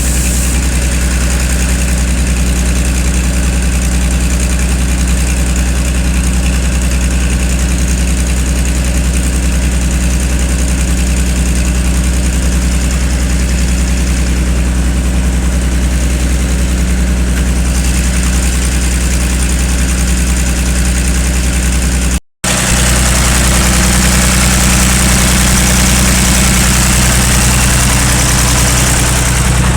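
Ford 6000 Commander tractor's six-cylinder engine running steadily at idle, freshly rebuilt and back running after years dead. The sound cuts out completely for an instant about three-quarters of the way through, then carries on the same.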